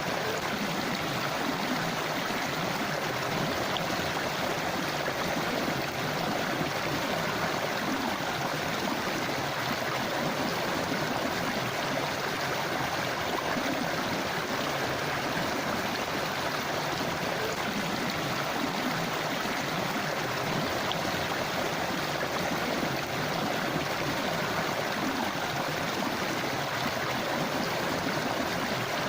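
A forest river or stream running over rocks: a steady rush of flowing water with a gurgling texture, unchanging in level.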